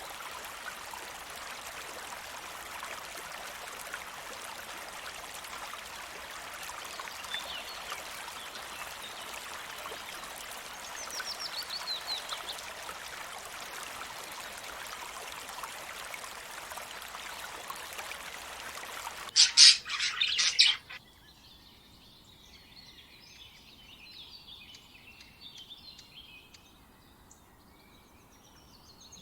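Small birds chirping, with a short descending trill, over a steady rushing background noise. About two-thirds of the way through, a brief burst of loud rapid knocks cuts it off, and quieter bird chirping follows.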